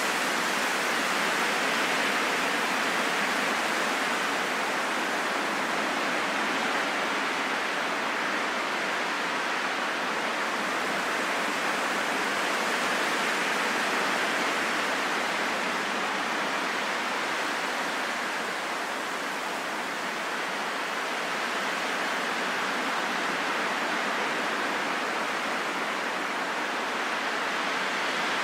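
Steady rain falling in a forest, an even hiss with no single drops standing out.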